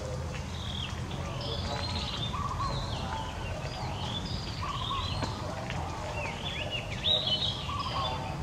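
Birds chirping and calling: many short, arched chirps, with a short phrase repeated about every two seconds. A steady low rumble runs underneath.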